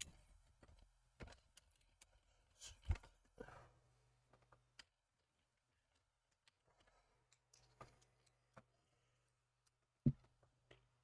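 Faint, scattered clicks and taps of small model truck parts and screws being handled during assembly, with a sharper knock about ten seconds in.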